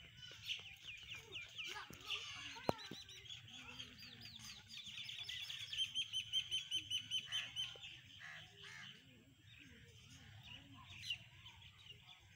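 Small birds chirping in quick repeated runs of short, high, falling notes, about five or six a second, first in the opening seconds and again from about halfway through, over a low steady background hum.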